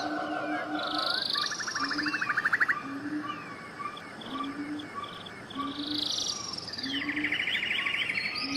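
Several birds singing at once: chirps and whistled phrases, with a fast trill about two seconds in and another near the end. Beneath them, a short low call repeats about once a second.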